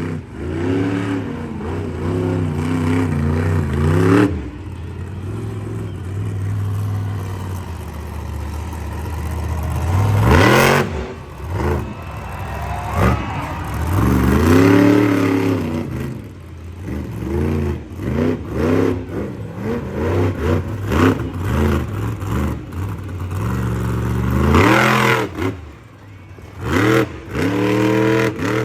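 Monster truck engine revving hard again and again, its pitch climbing and dropping with each burst of throttle, with a couple of short loud crashes about ten seconds in and near the end.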